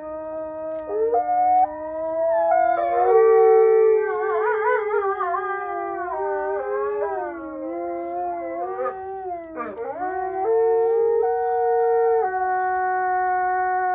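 A pack of Mexican gray wolves howling in chorus, several long howls overlapping at different pitches. One voice wavers quickly a few seconds in, and another dips sharply and rises again about two-thirds of the way through.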